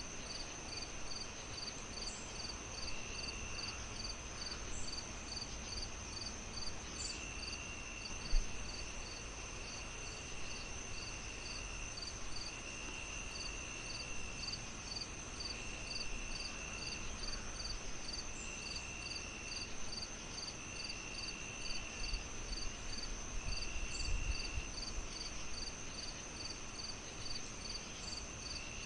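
Crickets chirping in a steady high pulse of two to three chirps a second, with a continuous high buzz and trills of about a second repeating every few seconds. Underneath is the low hiss and crackle of a wood fire, with one sharp pop about eight seconds in.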